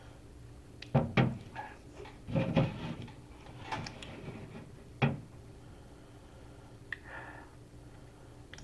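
Handling noises: two sharp knocks about a second in, a short scraping or rustling sound around two and a half seconds, and another sharp knock about five seconds in.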